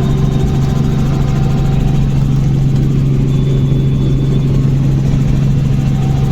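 Helicopter running with a loud, steady drone; an even low hum with overtones holds throughout.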